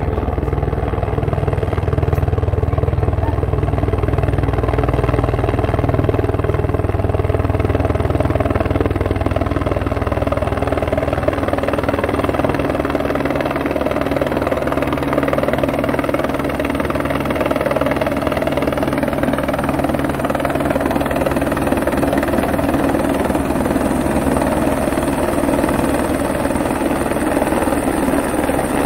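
Helicopter rotor and turbine engine running steadily and loudly close by, with a low pulsing beat in the first half that evens out about halfway through.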